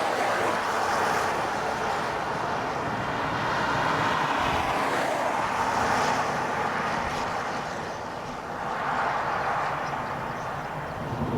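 Strong wind rushing over the microphone, swelling and easing in gusts, with a lull about eight seconds in.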